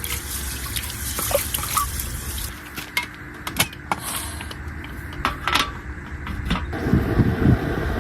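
Water trickling and splashing, with scattered clicks and knocks of kitchen utensils. Near the end a lower, steady rushing sound takes over.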